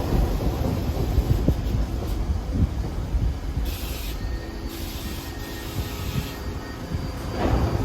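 New York City subway train running through the station, a steady low rumble with irregular clacks of wheels over rail joints. It eases off midway and builds again near the end.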